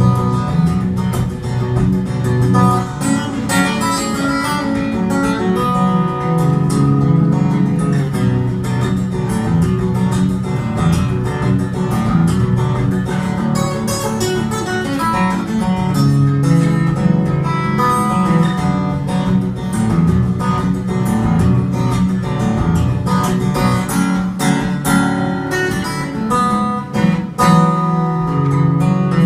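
Acoustic guitar playing an instrumental passage of the song with no singing: quick plucked notes over a steady bass.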